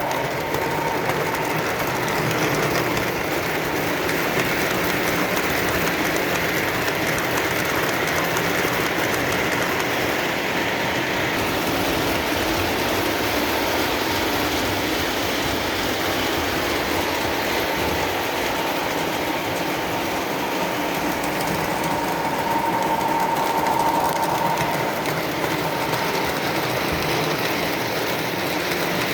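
Lionel O-gauge model train, the 1991 Santa Fe Warbonnet set, running steadily around the track: a continuous rolling rumble and clatter of wheels and motors on the rails.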